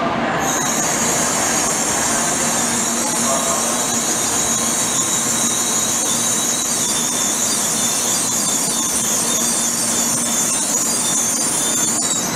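N700-series Shinkansen train rolling slowly into the station as it brakes to a stop. A steady high-pitched squeal sets in about half a second in and holds over the low rumble of the train, cutting off at the end.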